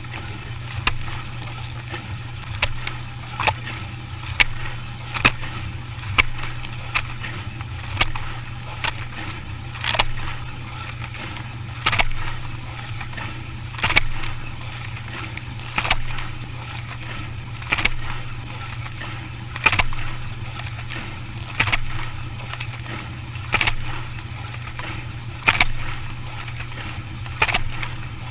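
Dishwasher running a wash cycle: a steady low pump hum with rhythmic splashes of water, about once a second at first, then about every two seconds.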